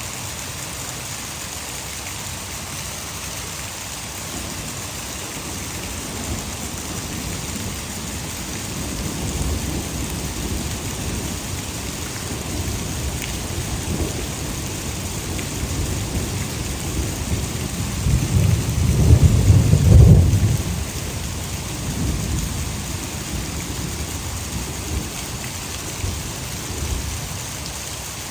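Heavy rain falling steadily, with a long rolling rumble of thunder. The thunder builds from about six seconds in, is loudest about two-thirds of the way through, then fades back into the rain.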